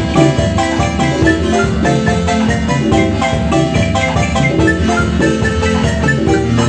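Chiapas marimba playing a lively tune: quick, dense runs of struck wooden notes over steady low notes.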